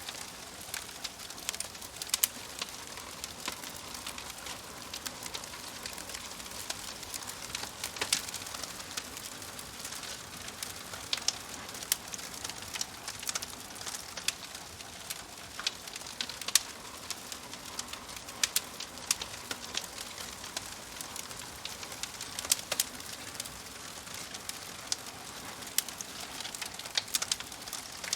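Wood fire crackling, with irregular sharp pops and snaps, some loud, over a steady soft hiss.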